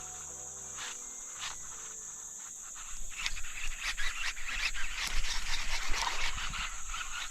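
Insects droning in a steady high whine, with background music notes for the first couple of seconds. From about three seconds in, a louder, irregular splashing and crackling starts.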